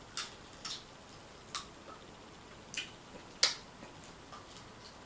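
Snow crab shells being cracked and picked apart by hand: a string of sharp, irregular snaps and clicks, about five clear ones, the loudest about three and a half seconds in.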